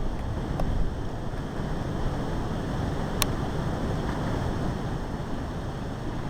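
Strong wind blowing and buffeting the microphone in a steady low rush, with one sharp click about three seconds in.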